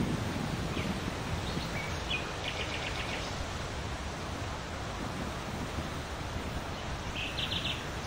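Steady outdoor background hiss with two short bursts of rapid, high bird chirps, about two seconds in and again near the end.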